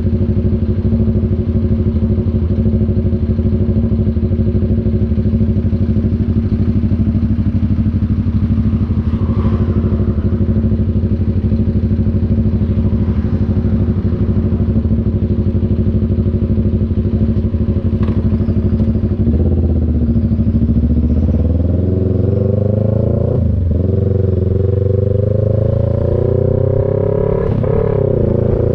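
CF Moto NK400's parallel-twin engine running at a steady speed, then accelerating: the revs climb, drop twice at upshifts and climb again through the gears.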